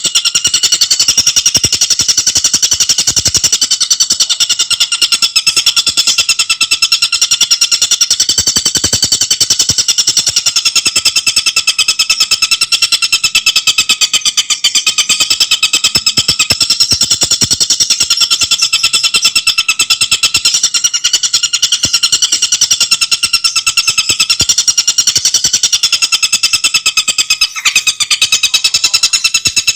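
Tengkek buto singing: a continuous, very rapid chattering trill of tightly packed notes, with a brief break near the end.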